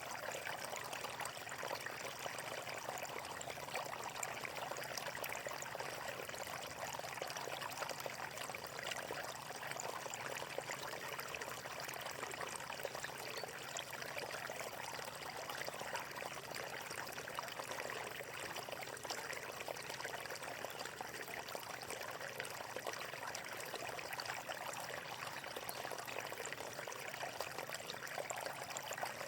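Flowing water, a steady even splashing and trickling like a small stream or water pouring over rocks.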